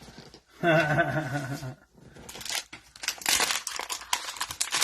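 A brief pitched voice-like sound lasting about a second, then, from about two seconds in, the crackling and tearing of the plastic wrapper of a Mosaic football cello pack being opened.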